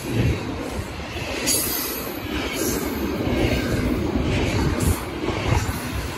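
BNSF double-stack intermodal freight train rolling past close by: a steady rumble and clatter of wheels and stack cars, with brief high hisses from the wheels every second or so.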